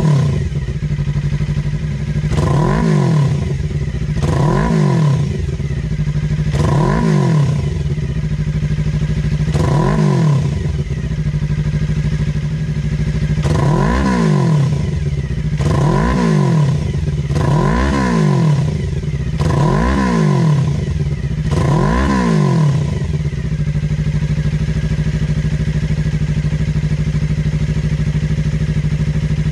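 Suzuki GSX250R's 248 cc parallel-twin engine breathing through an LCI GP stainless slip-on muffler, revved in about ten quick blips that rise and fall back, then settling to a steady idle for the last several seconds.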